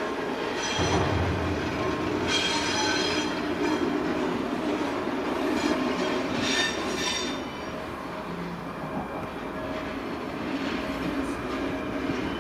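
A train running past with a steady rumble, and three bursts of high-pitched metallic squealing, each about a second long: near the start, two to three seconds in, and around the middle.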